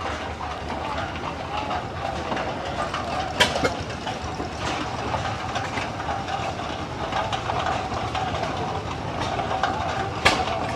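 An engine running steadily with a fast, even beat, and two sharp clacks, one about three and a half seconds in and one near the end.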